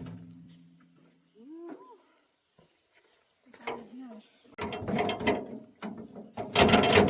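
A hand ratchet being worked in spurts from about halfway through, its pawl clicking rapidly with each stroke, as a load of logs is pulled tight.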